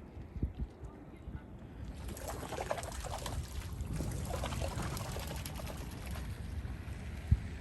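Outdoor ambience on a nature trail: a low wind rumble on the microphone, with faint short calls or chatter rising over it from about two seconds in.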